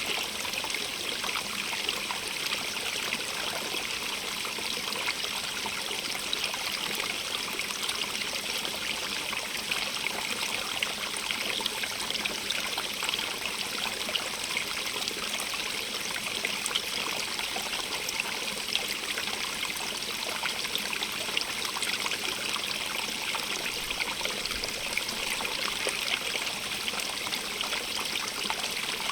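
Stream of running water, a steady even rush with fine trickling detail and no other sounds.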